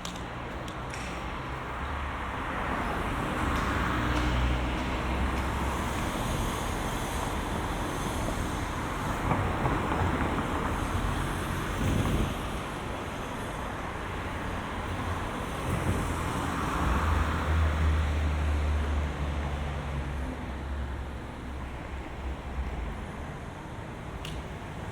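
Road traffic passing close by: a steady stream of motor vehicles, with three louder passes that swell and fade, the last carrying a deep engine hum.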